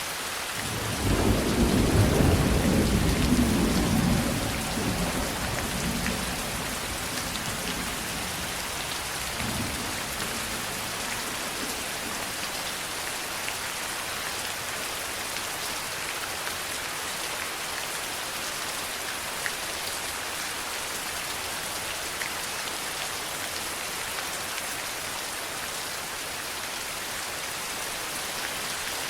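Steady heavy rain, with a roll of thunder about a second in that rumbles for several seconds and fades, and a fainter rumble near ten seconds.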